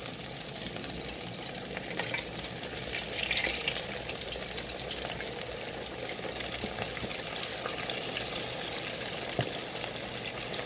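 Mustard-coated chicken wings frying in hot grease: a steady sizzle with scattered small crackles and pops, swelling louder for a moment about three seconds in and with one sharper pop near the end.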